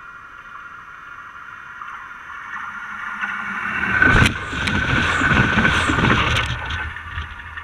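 A train passing directly over a camera set between the rails: a steady high ringing hum builds as it approaches. About four seconds in it becomes a loud rumble with a few sharp clicks of wheels over the camera, easing off near the end.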